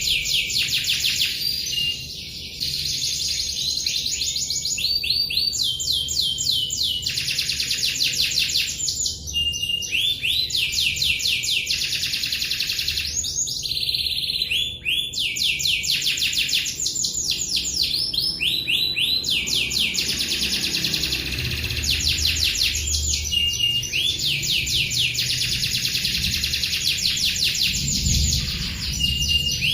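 Canary singing continuously in long rolling trills: rapid runs of repeated notes, one phrase after another, changing every second or two with barely a pause.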